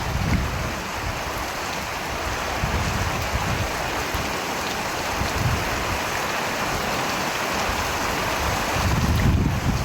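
Steady heavy rain hissing, with a low rumble at the start and another swelling about nine seconds in.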